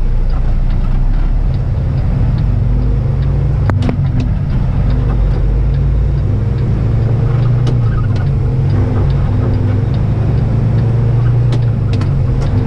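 Kenworth truck's diesel engine running steadily, heard from inside the cab while driving.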